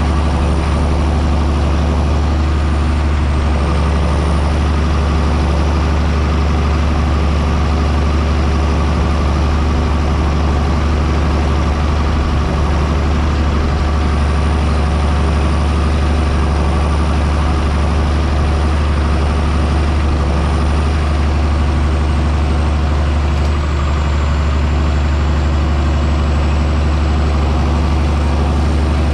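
John Deere 6630 Premium tractor's six-cylinder diesel engine running steadily under load while plowing, a deep even drone with a thin high whine above it that wavers slightly.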